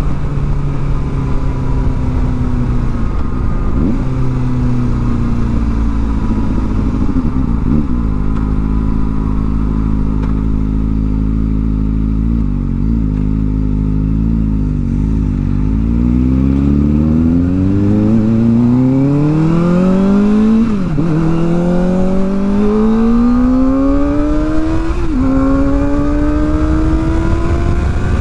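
Kawasaki ZX-4R's inline-four engine through a new aftermarket exhaust, heard while riding. The revs fall in steps as the bike slows. From about halfway the engine pulls hard, pitch rising through two upshifts near the end.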